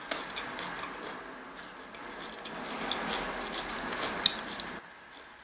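Close-miked chewing of a mouthful of cauliflower rice: soft, wet mouth sounds with small clicks, stopping about five seconds in.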